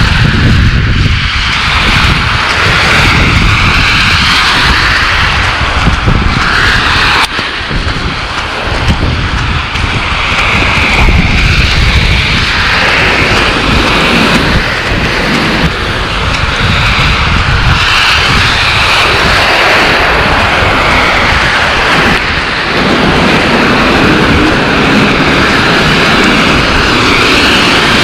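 Wind buffeting the microphone outdoors in a storm: a loud, gusting rumble with a steady hiss over it.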